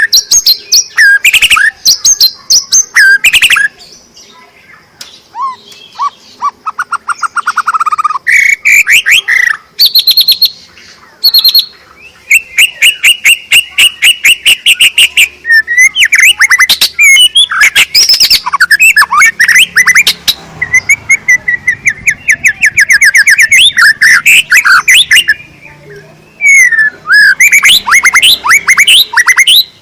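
White-rumped shama (murai batu) singing loudly and continuously: a varied song of clear whistled phrases and fast trills of rapidly repeated notes, with a couple of brief quieter spells.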